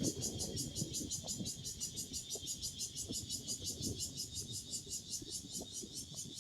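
Cicadas calling in a steady, rapid pulsing chorus, about eight pulses a second, over a low rustle of wind in the trees.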